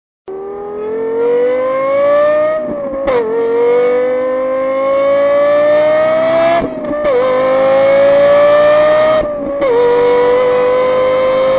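Lexus LFA's V10 engine accelerating hard at high revs through the gears, cutting in suddenly just after the start. Its high wail rises steadily in pitch and drops sharply at three quick upshifts, about 3, 7 and 9.5 seconds in, then climbs again.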